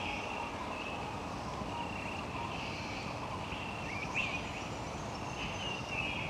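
Rainforest ambience: short, high animal calls repeating every second or so, some sliding down in pitch, over a steady background hiss.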